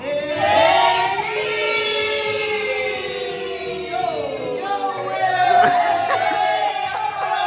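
A group of men and women singing together, holding long notes.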